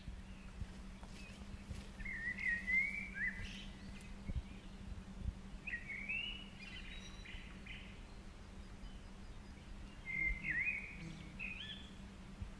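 A songbird singing three short phrases about four seconds apart, over a steady low hum and a low rumble.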